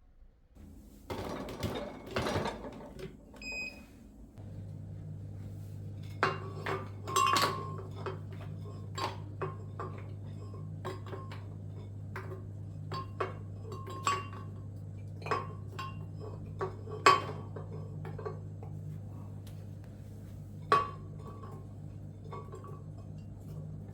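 Dishes and cutlery clinking and being set down, many short sharp clinks one after another. A steady low hum starts about four seconds in and runs beneath them.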